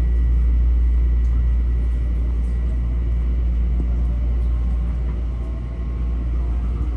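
Steady low rumble of an M7A electric multiple-unit train running between stations, heard from inside the passenger car.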